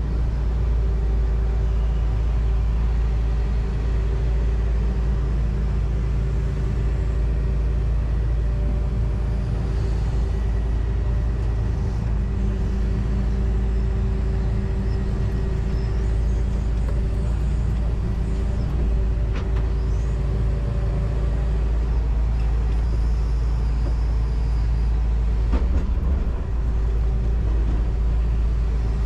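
John Deere 245G excavator's diesel engine running steadily under load, heard from inside the cab. A short knock comes near the end.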